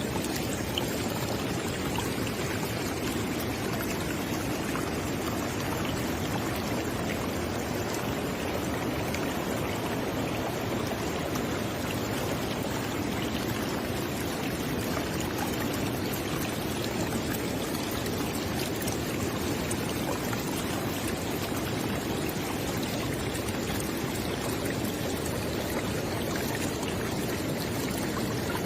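River water flowing steadily, a continuous rushing and burbling with no change in level.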